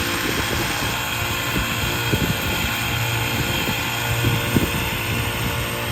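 Construction machinery engine running steadily with a constant low hum, with scattered knocks.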